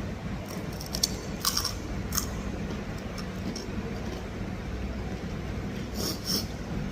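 Eating noises: short soft crunches and clicks, a cluster about a second in and another near the end, over a steady low hum.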